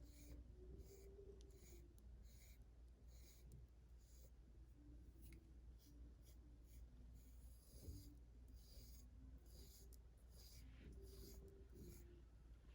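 A brush being drawn through a cat's fur in soft, scratchy strokes, about two a second, with a short lull in the middle.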